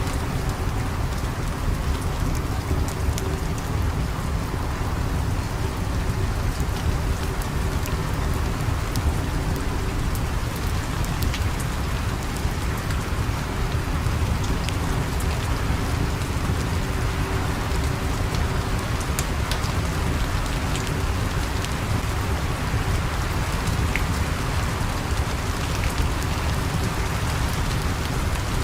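Steady rain falling with a low rumble under it. A crackling fire sounds through it as scattered sharp pops.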